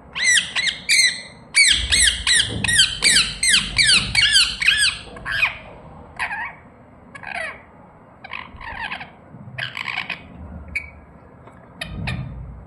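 Pet parrot calling: a fast run of short, sharp chirping squawks, about five a second, for the first five seconds, then slower, scattered calls.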